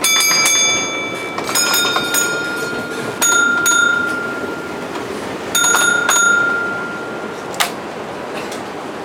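Signal-box block bell on a model railway layout, struck in short groups of rings that each ring on and fade, about four times, as bell codes passed between operators; a sharp click near the end, over the steady rumble of model trains running.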